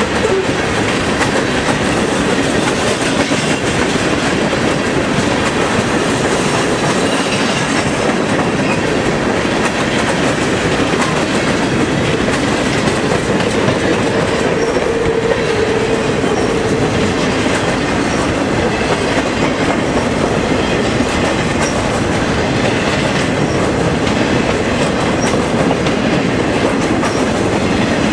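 Train cars rolling steadily past, wheels clicking over the rail joints. The sound holds loud and even for the whole stretch, with a faint squeal from the wheels around the middle.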